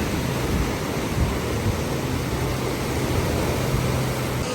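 Steady rushing noise with a low, even hum underneath; the hum cuts off suddenly near the end.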